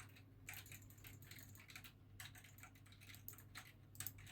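Faint typing on a computer keyboard: a run of irregular, soft key clicks over a low steady hum.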